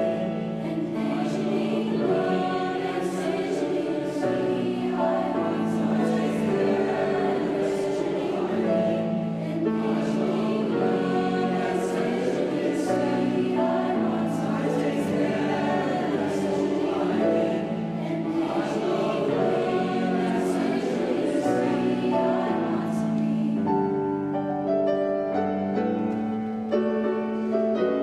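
Youth choir singing held chords in a gospel-style song; the sound thins and softens near the end.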